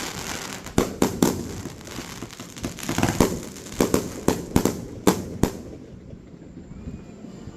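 Fireworks going off: a quick, irregular run of sharp bangs over a crackling hiss, stopping about five and a half seconds in.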